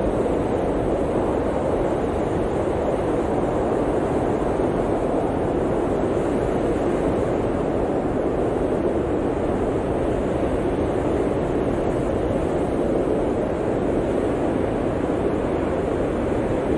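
Blizzard wind blowing steadily: an even, deep rushing noise with no gusts, breaks or separate sounds.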